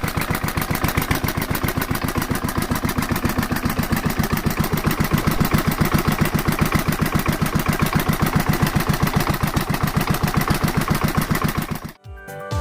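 Restored Yanmar K3 single-cylinder stationary diesel engine running steadily, with an even beat of about six to seven strokes a second.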